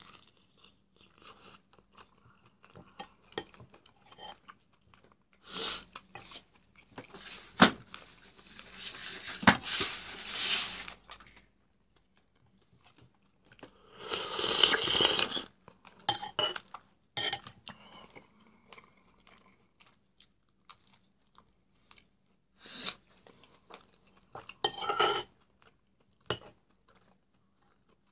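Close-miked eating sounds: chewing and biting on duck meat and bread in short irregular bursts with pauses between. About fourteen seconds in there is a louder, noisy stretch as a spoonful of soup is taken, and a couple of sharp clicks come earlier.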